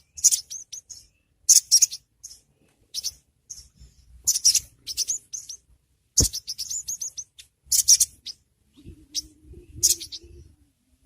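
Spiderhunter (sogon) calling: sharp, high-pitched chirps in quick bursts of several notes, repeating every second or so. A single sharp click sounds about six seconds in.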